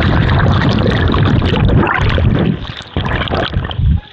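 Loud rushing, buffeting noise of a zip-line ride, with wind blasting the microphone. It dips briefly near the end and then cuts off suddenly.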